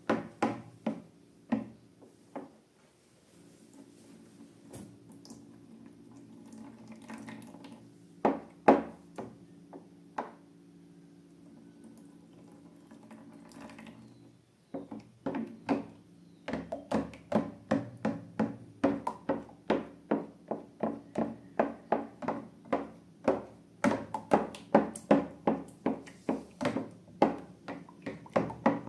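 Slime being mixed and squished by hand: a run of wet clicks and pops, sparse at first and then coming two to three a second from about halfway through, over a steady low hum.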